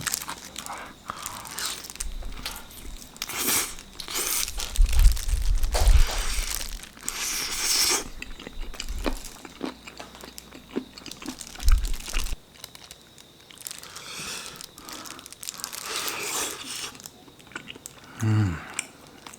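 Close-up eating sounds: crunchy bites and chewing of wood-fire smoked seasoned chicken, in repeated bursts with sharp crackly clicks.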